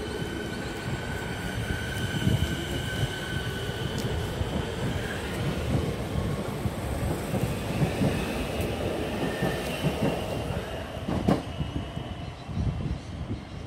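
Siemens Nexas electric suburban train moving along the platform and clearing it, with steady wheel-on-rail rumble and clatter. A high steady whine fades away in the first few seconds, and one sharp knock comes near the end.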